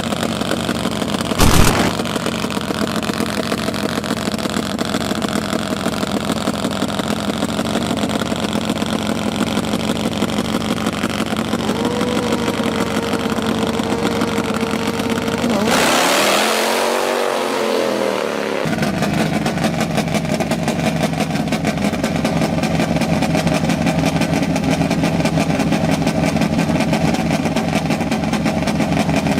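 Dirt drag motorcycle engine running with rapid, even firing pulses. A sharp bang comes about a second and a half in, and a loud rushing burst follows around the middle before the steady running resumes.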